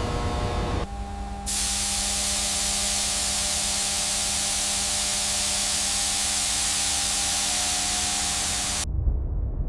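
Steady pressurised spray hissing over a constant machine hum. It starts about a second and a half in and cuts off suddenly near the end.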